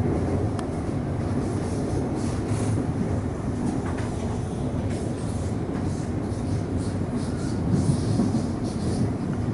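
Suburban electric train heard from inside the carriage while running along the track: a steady rumble of wheels on rail, with brief irregular hissing and screeching sounds from the wheels over it.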